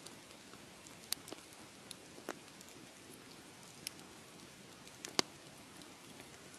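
Wood fire crackling: a soft steady hiss of burning with scattered sharp pops, the loudest about five seconds in.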